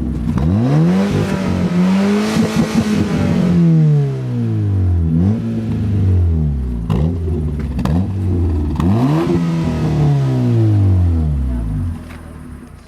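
Fiat Punto 1.2 four-cylinder engine through an ASSO aftermarket exhaust, revved up and let fall back several times: two long revs with a couple of quick blips between them. The sound drops off sharply near the end.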